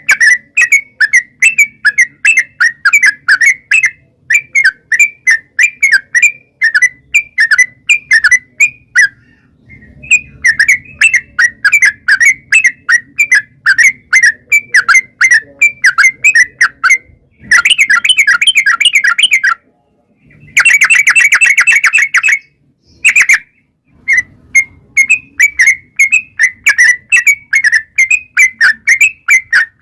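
Yellow-vented bulbul (trucukan) singing a long, rapid run of bubbly chattering notes, about four a second. There is a brief pause about nine seconds in, and two denser, faster trills come about two-thirds of the way through.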